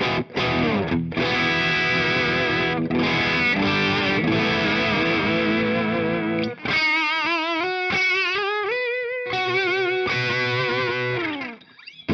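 Electric guitar, a Telecaster with two humbuckers, played through distortion. Full chords give way about seven seconds in to a few held notes with wide vibrato, then chords again that die away near the end.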